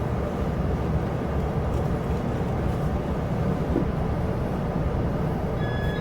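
Chu-Kuang express passenger carriage running at speed, heard from inside: a steady low rumble of wheels on the track, with faint high-pitched tones coming in near the end.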